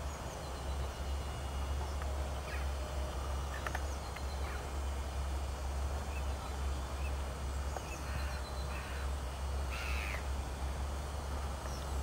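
A few short, scattered bird calls across a lake of waterfowl, over a steady low rumble.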